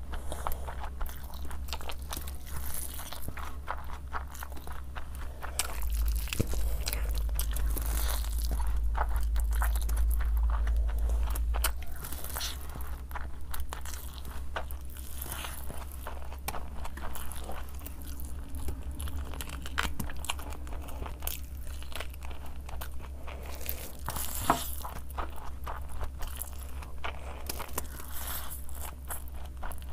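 Close-miked eating sounds: a person chewing big mouthfuls of spicy fried rice and chicken, with wet chewing and frequent sharp crunchy crackles. A low hum swells for several seconds in the middle.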